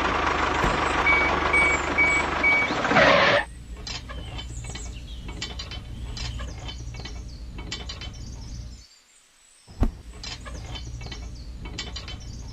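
Loud mechanical noise with four short beeps in the first few seconds. It drops to a quieter hum with irregular clicks and ticks from small machinery, stops briefly about nine seconds in, and resumes after a sharp click.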